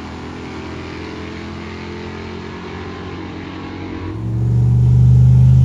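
Car engine running with a steady pitch, then a much louder, deep-toned engine note comes in about four seconds in and holds steady.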